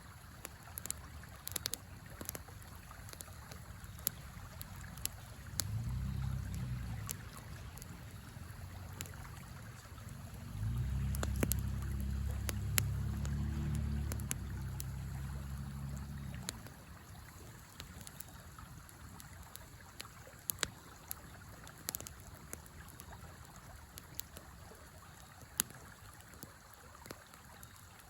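Campfire crackling with sharp scattered pops over the steady rush of a river. A low rumble comes in briefly about six seconds in and again for several seconds in the middle.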